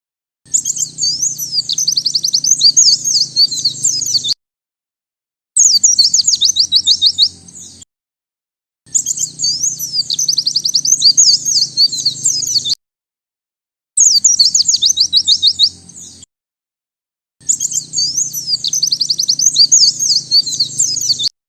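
White-eye (pleci) singing: five bouts of rapid, high twittering and trills, each a few seconds long, broken by short silent gaps.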